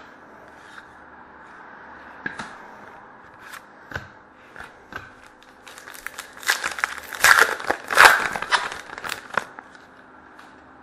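Trading card pack wrapper torn open and crinkled, a dense rustling stretch from about six seconds in that is loudest near eight seconds. Before it come a few light clicks and taps of cards being handled.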